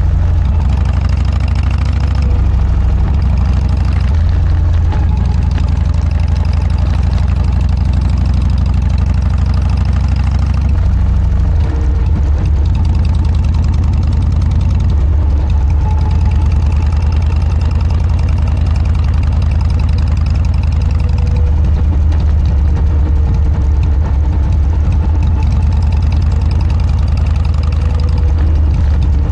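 Harley-Davidson Dyna's air-cooled V-twin running through a Motorstage aftermarket muffler, a loud, steady low exhaust note whose pitch shifts slightly a couple of times.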